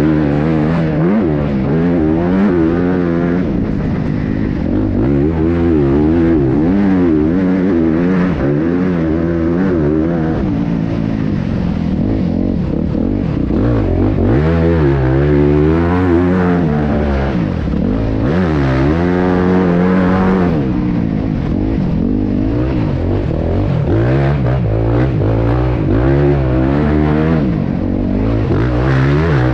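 Motocross bike engine revving hard and easing off over and over, its pitch climbing and dropping every second or two as the rider accelerates and brakes around the track.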